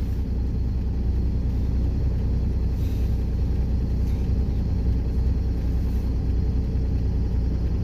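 Steady, loud low rumble of road travel noise, with traffic on the road.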